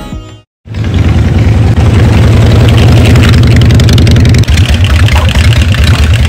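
Carbureted 1340cc Harley-Davidson Evolution V-twin of a chopper built from a 1993 Softail Heritage, running loud through its individual exhaust pipes with a deep, uneven beat. It cuts in suddenly about half a second in, after a short silence.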